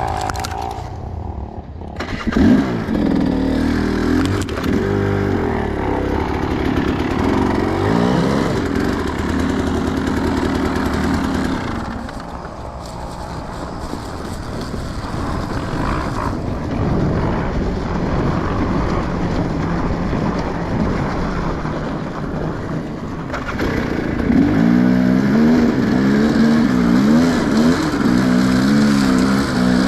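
Enduro motorcycle engine revving up and down repeatedly. It drops quieter about halfway through, then comes back louder with quick, repeated throttle blips near the end.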